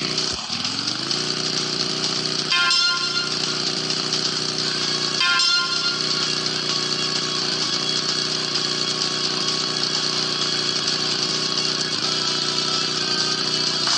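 Motorcycle engine running steadily under throttle, its pitch dropping and climbing back in the first second. Two short higher-pitched sounds break in, about three seconds apart.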